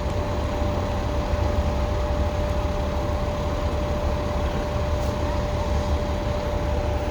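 City street traffic: a steady low rumble of vehicles, with a steady whine held at one pitch, rising slightly near the end.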